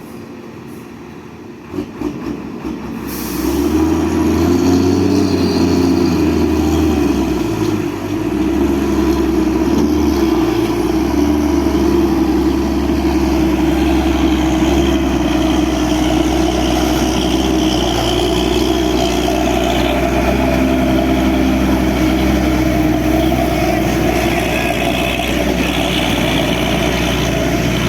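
A heavy truck's diesel engine that, about three seconds in, revs up and holds at high revs, running hard and steady under load. A few knocks come before it.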